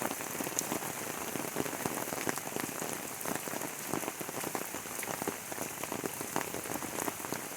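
Light rain falling on wet surfaces: a steady hiss dotted with many small, irregular drop taps.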